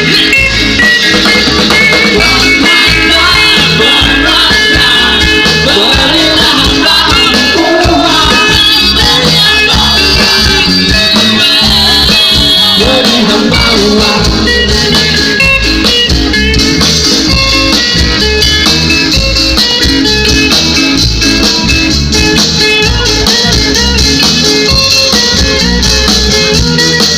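A band playing an instrumental stretch of a song, with guitar, shaken percussion and a steady beat.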